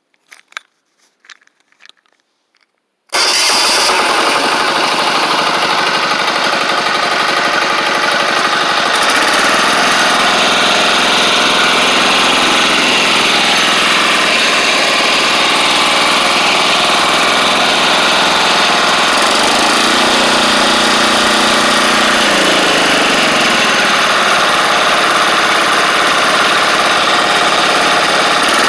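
A few faint clicks, then a 10 hp Chinese Yanmar-clone single-cylinder diesel engine starts abruptly about three seconds in and runs steadily and loudly, its pitch shifting a little in the last third.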